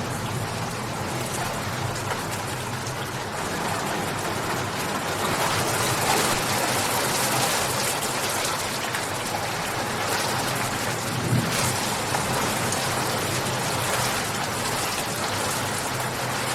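Steady rain falling: a dense, even hiss of drops that keeps a constant level.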